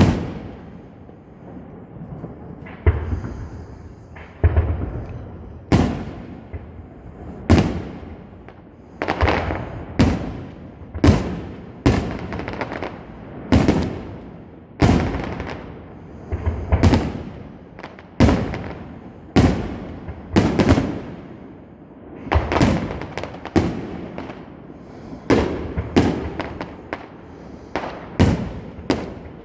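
Fireworks going off: a long series of sharp bangs, roughly one a second, each fading away quickly before the next.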